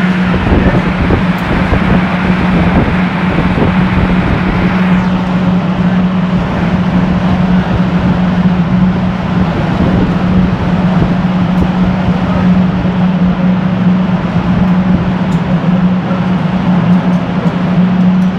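Ford Escort Cosworth's methanol-fuelled turbocharged four-cylinder engine idling with a constant drone. A higher hiss over it drops away about five seconds in.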